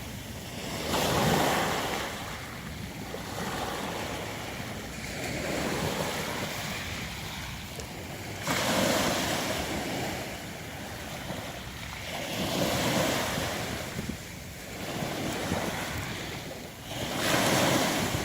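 Sea surf breaking and washing up a pebble beach, in repeated surges: four loud ones a few seconds apart, with smaller swells between them.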